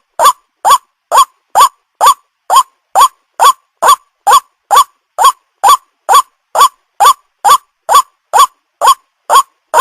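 White-breasted waterhen (ruak-ruak) call, used as a trapping lure: short pitched notes repeated very evenly, a little over two a second.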